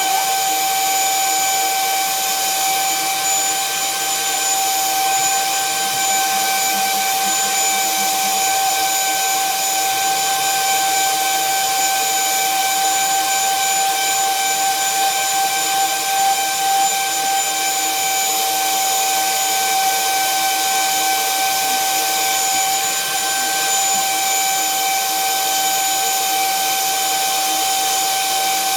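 Electric drill running steadily at constant speed with a high, even whine, drilling holes in metal.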